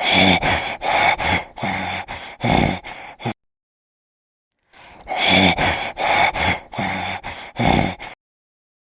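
An animal calling in two bursts of rapid, harsh, breathy pulses, each about three seconds long, with a dead-silent gap between them.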